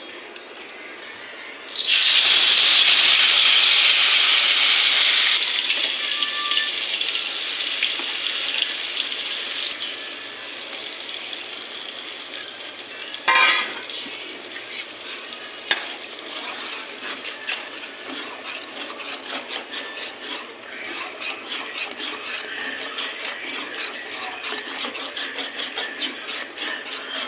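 Food going into hot oil in a cooking pan: a loud sizzle starts suddenly about two seconds in and slowly dies down. Then comes steady frying with stirring, a spoon clicking and scraping against the pan.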